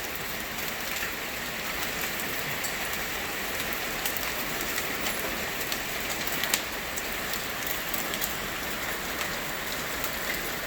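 Hail falling steadily: an even hiss of the storm with scattered sharp ticks of hailstones striking hard surfaces.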